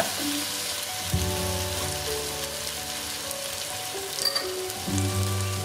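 Onion and tomato curry masala sizzling in a pan on medium heat, a steady crackling hiss, under background music of held chords that change about a second in and again near the end.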